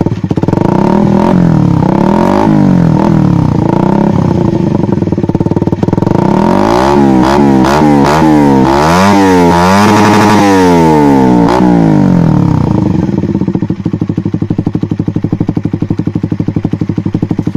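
Suzuki Satria FU fuel-injected single-cylinder engine running through a Nobi Titan aftermarket exhaust with the dB killer baffle removed. It is revved in repeated throttle blips, with a run of quick blips in the middle, then settles back to a steady idle for the last few seconds.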